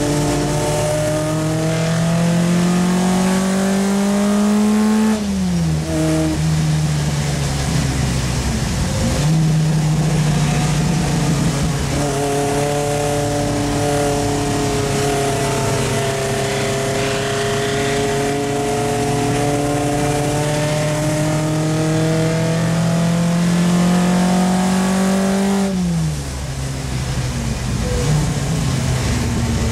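Triumph Spitfire Mk3's 1.3-litre four-cylinder racing engine heard from inside the cabin: the engine note climbs slowly under load, falls away sharply about five seconds in and again near the end, and picks up and climbs again after each drop.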